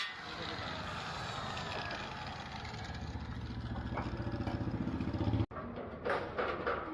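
An engine running with a fast pulsing hum that gets louder and quicker, then cuts off abruptly about five and a half seconds in. It is followed by rhythmic percussive music.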